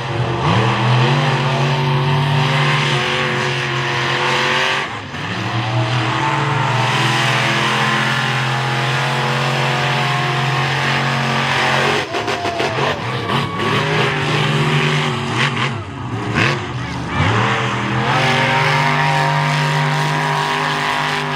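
Monster truck engine running hard at high revs, held steady for long stretches. A little past the middle the pitch dips and climbs back several times.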